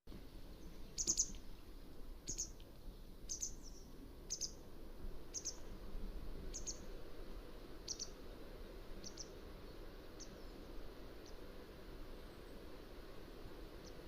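Mountain wagtail calling: a series of about ten short, high calls, roughly one a second, growing fainter towards the end, over a steady background hiss.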